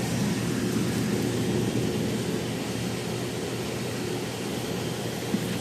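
Old Trane air handler running on its newly replaced breaker: the blower gives an even rush of air over a steady low hum, with one short tick near the end.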